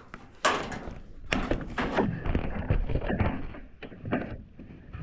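Irregular knocks and thuds from handling building materials, about a dozen sharp hits in a few seconds.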